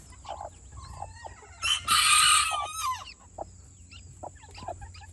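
Chickens clucking with short scattered calls, and one loud, harsh call about two seconds in that lasts about a second.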